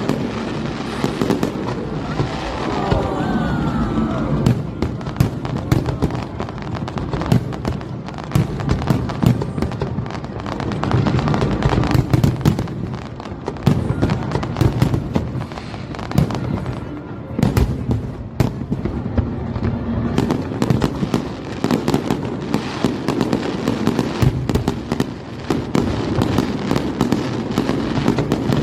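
Aerial fireworks display going off in a rapid, continuous barrage of bangs and crackles.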